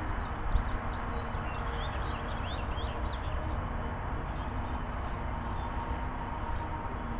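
Small birds chirping a number of times during the first few seconds, over a steady low outdoor rumble.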